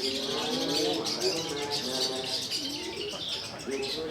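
Several long-tailed shrikes (cendet) singing at once in a songbird contest: a dense run of high chirps and trills over lower, drawn-out gliding notes.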